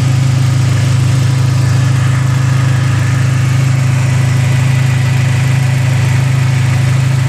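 Turbocharged 2.4-litre four-cylinder engine of a big-turbo 2004 Dodge SRT-4 idling steadily with a deep even hum. The electric radiator cooling fans are running along with it, switched on as the engine reaches about 200 °F.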